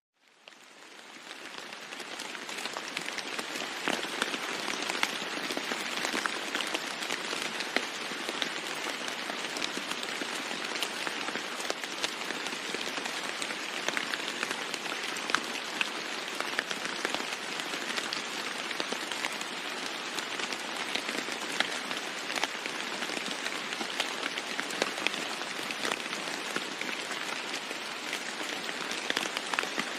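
Steady heavy rain drumming on a roof, a dense hiss with many sharp drop ticks; it fades in from near silence over the first couple of seconds.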